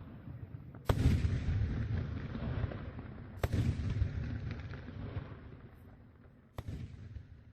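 Three fireworks shells bursting in deep booms, about two and a half to three seconds apart. Each is followed by a long low rumble rolling away, and each is fainter than the one before.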